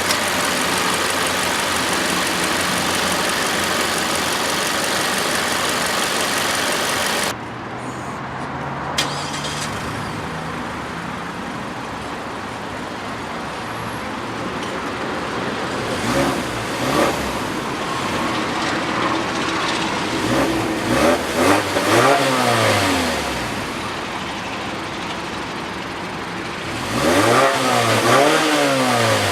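Mazda 6's four-cylinder engine idling, then revved in short blips, the pitch rising and falling with each, with a longer rev near the end. Before that, a loud steady hiss cuts off suddenly about seven seconds in.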